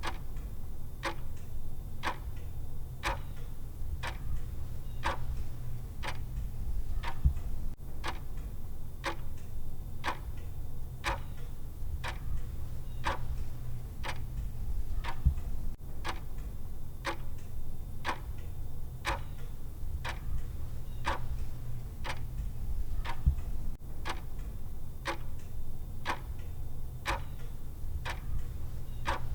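Clock ticking sound of a countdown timer, one tick each second, evenly and steadily, over a steady low hum.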